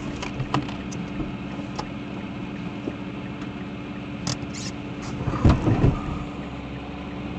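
Steady hum of a car's road and engine noise picked up by a dashcam, with a constant low tone, scattered small clicks, and a louder cluster of knocks about five and a half seconds in.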